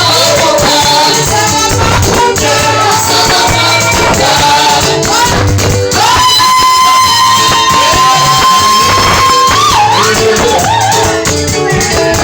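Gospel praise music: singing over a steady beat and bass, with a shaker or tambourine, and one long held sung note from about halfway through.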